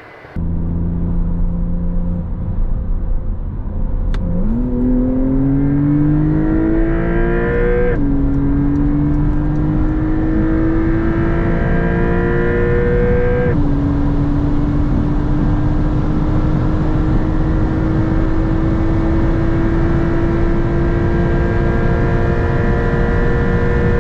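Porsche 911 Targa 4 GTS twin-turbo flat-six under hard acceleration. The engine note climbs in pitch, with quick upshifts about 8 and 13.5 seconds in, then rises slowly in the higher gear. It starts at a steady speed for the first few seconds before the throttle goes down.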